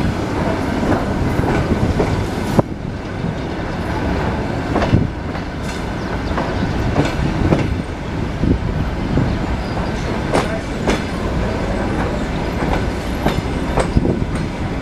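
ED9M electric multiple unit running at speed, heard on board: a steady rumble of the carriage with the clickety-clack of wheels passing over rail joints, plus short knocks and rattles.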